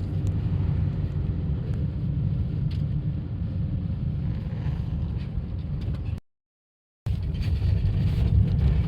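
Car engine and road noise heard from inside the cabin while climbing a mountain road, a steady low rumble. It cuts out completely for just under a second about six seconds in, then carries on.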